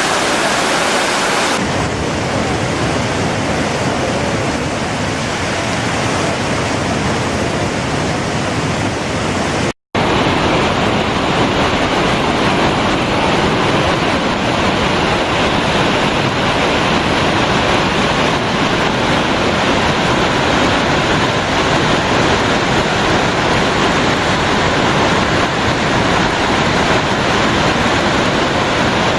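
A waterfall's loud, steady rush of falling water, cut briefly about ten seconds in by a moment of silence.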